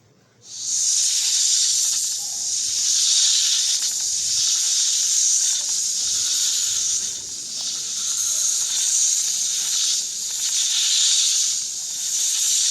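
Snake hissing: a long, loud hiss that starts about half a second in, swells and eases every couple of seconds, and cuts off suddenly at the end.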